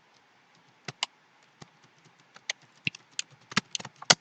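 Typing on a computer keyboard: scattered, irregular keystrokes that come faster near the end.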